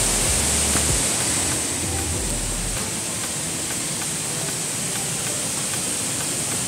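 Mae Sa Waterfall's rushing water, a steady, even rush of falling water.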